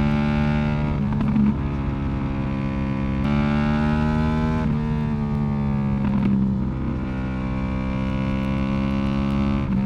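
Yamaha YZF-R1 inline-four sportbike engine and exhaust running at a steady cruise. The pitch holds fairly even, with brief breaks about a second in, just under five seconds in and around six seconds in. There is some wind noise on the microphone.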